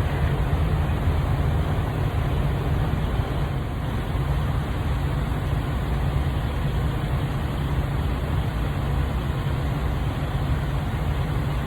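Steady low rumble of idling diesel truck engines.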